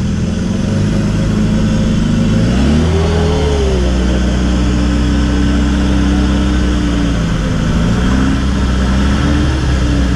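Land Rover Discovery's engine revving under load as it works through a deep mud hole. The revs climb about two and a half seconds in and hold, drop off briefly around eight seconds, then rise again near the end.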